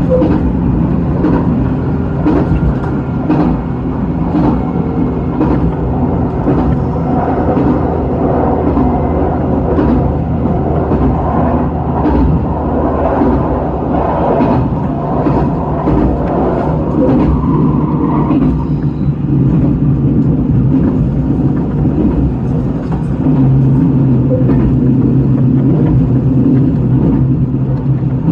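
A 2000 series diesel railcar running: a steady engine drone and rumble, with frequent clicks from the wheels and track.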